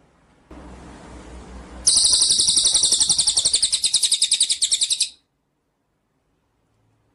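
Recorded songbird song: after a second or so of hiss and low rumble, a loud, rapid, high-pitched trill of chattering notes, about ten a second, runs for about three seconds and then cuts off suddenly.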